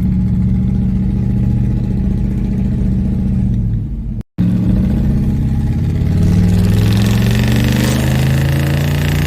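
Chevy squarebody pickup's engine running as the truck drives, then pulling up steadily in revs for several seconds as it accelerates. It breaks off for a split second of silence a little past four seconds in.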